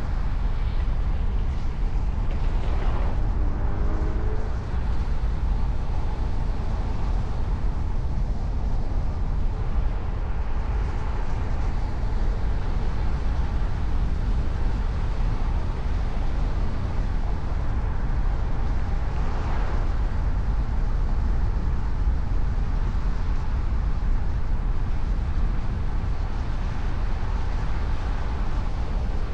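Steady low rumble of a car driving, road and engine noise, swelling briefly about three seconds in and again about twenty seconds in.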